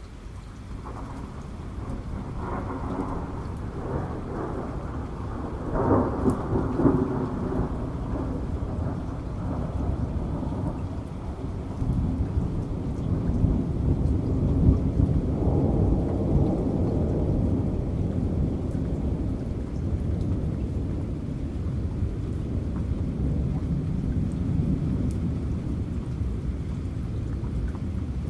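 Thunder rolling over steady rain: a low rumble builds about a second in, cracks loudest around six seconds, swells again midway, then rumbles on and slowly fades.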